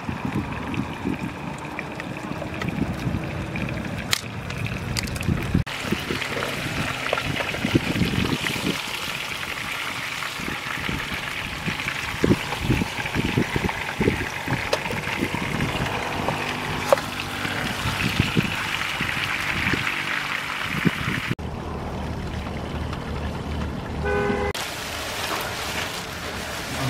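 Whole chicken frying in a pan of hot oil, sizzling steadily, with knocks of a wooden spatula against the pan as the chicken is turned. Near the end, plastic rustling as the cooked chicken is torn apart by hand.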